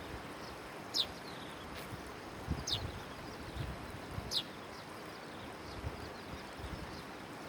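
A bird calling with a short, high, falling chirp, repeated three times about every second and a half to two seconds, over a steady hiss of outdoor noise with a few low thuds.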